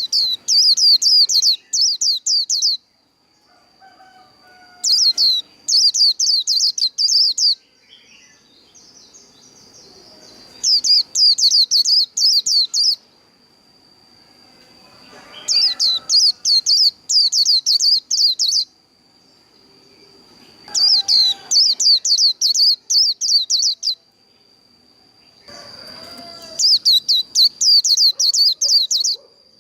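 White-eye (vành khuyên) singing its rapid, high twittering 'líu' song in repeated bouts of about two to three seconds, six bouts with short pauses between. A faint steady high tone runs underneath.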